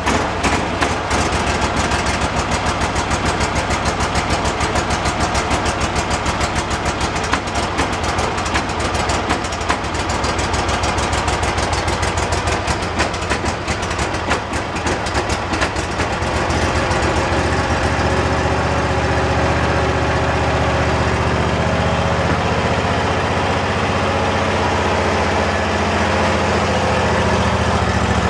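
Husqvarna zero-turn mower's 725cc V-twin engine running just after a cold start on a little choke, with a fast, even pulse. About halfway through its sound turns smoother, with a stronger low hum.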